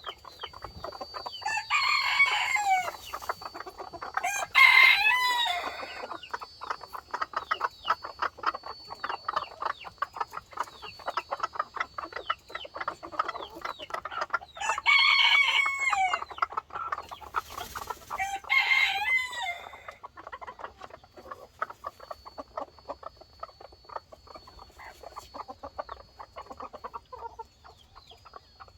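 Chickens: a rooster crows four times, in two pairs about ten seconds apart, over steady clucking and chatter.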